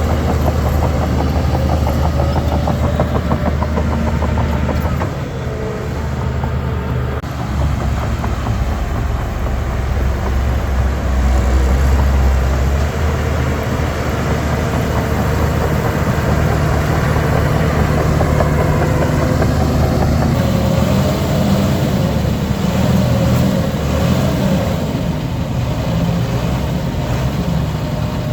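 Heavy diesel earthmoving machinery running steadily, with a deep engine note that shifts higher about halfway through as the engine picks up revs.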